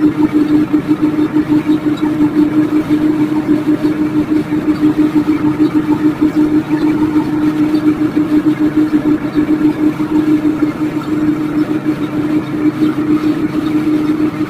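Microwave oven running with chocolate inside: a steady, loud hum with a fast flutter and no break.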